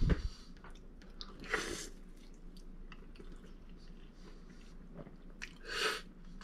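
A person biting into and chewing a mouthful of eggs Benedict, with a short knock at the very start.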